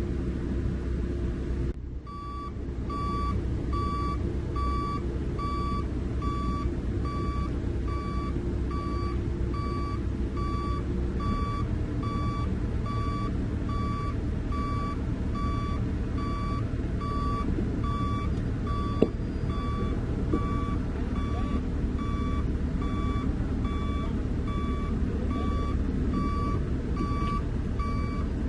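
Heavy-equipment reversing alarm beeping in an even, rapid rhythm over a diesel engine running steadily; the beeping starts about two seconds in, and the engine note shifts about halfway through.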